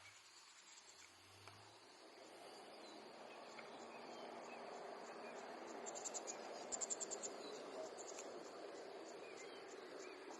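Insects chirping in short, rapid, clicking trills high in pitch, loudest about six and seven seconds in, over a faint steady hiss of outdoor background that slowly grows louder.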